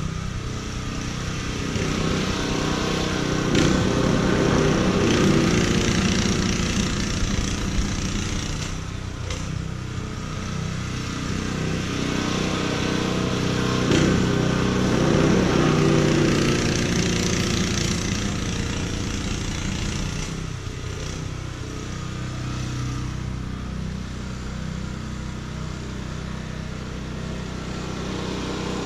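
Small petrol engine running steadily, getting louder twice and then easing off again.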